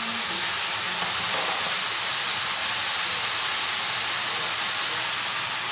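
Cut ash gourd pieces sizzling in hot oil in a pan: a steady frying hiss.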